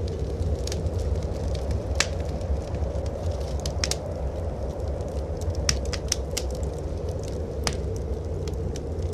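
Wood fire in a fireplace crackling, with a dozen or so sharp pops scattered irregularly, a cluster of them a little before the six-second mark, over a steady low rumble of blizzard wind outside.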